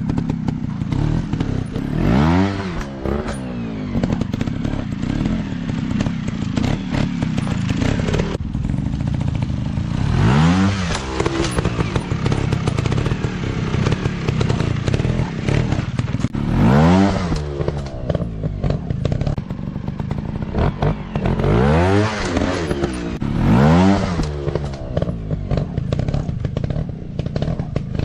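Small dirt bike engines running, the throttle opened and closed about five times so the engine note rises and falls, with a clatter of the bikes over rough ground.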